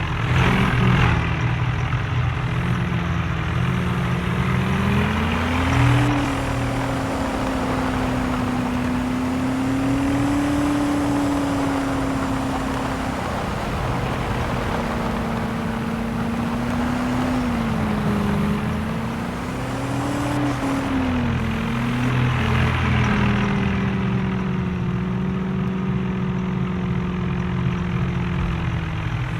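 Tractor engine running under load, its pitch rising about five seconds in and holding, then dipping, rising again and falling back to a steady lower speed near the end.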